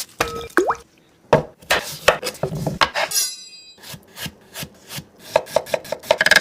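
Knife cutting a cucumber on a wooden cutting board: a series of irregular crisp cuts and knocks on the board, with rubbing and scraping between them.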